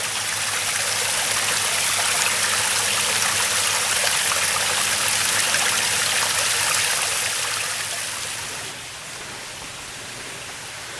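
Small waterfall on a mountain stream, water rushing steadily; the sound falls off noticeably about eight and a half seconds in.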